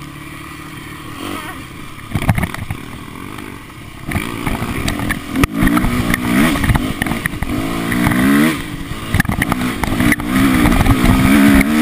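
Dirt bike engine running steadily, then revving, its pitch rising and falling repeatedly from about four seconds in.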